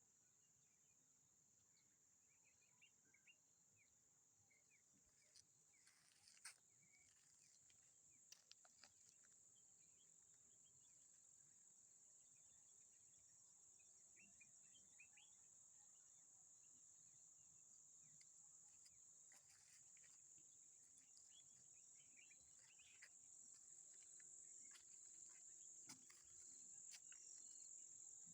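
Faint, steady high-pitched chorus of insects such as crickets, growing slowly louder, with scattered short chirps and a few faint clicks or taps.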